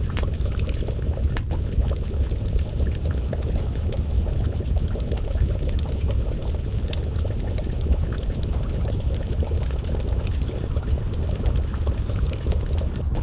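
Wood fire crackling, with frequent small snaps and pops over a dense low rumble, and a pot of stew bubbling at a simmer.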